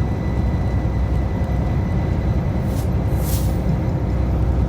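Steady low rumble of a semi-truck running down the road, with two short high hisses about three seconds in.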